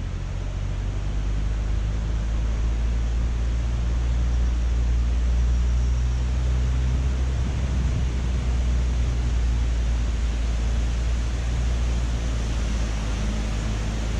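Car driving along: a steady low engine and road hum with an even tyre hiss, heard from inside the cabin.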